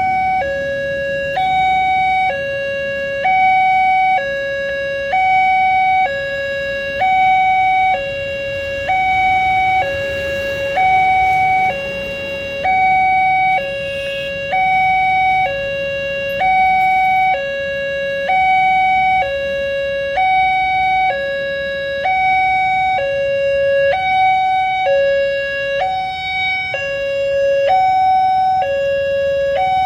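Railway level-crossing warning alarm sounding for an approaching train. It repeats two alternating electronic tones steadily, a higher one then a lower one, each held about a second, over a haze of road-traffic noise.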